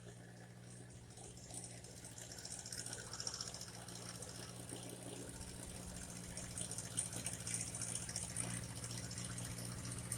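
1958 Ford 851 tractor engine idling steadily, with a hiss building over it from about a second and a half in.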